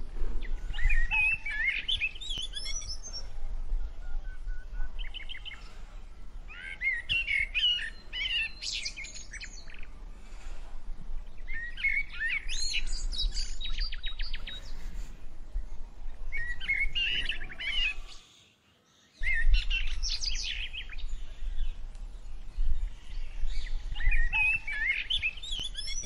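Bouts of chattering bird calls, a couple of seconds each, coming about every five seconds over a steady low rumble. The sound drops out completely for about a second partway through.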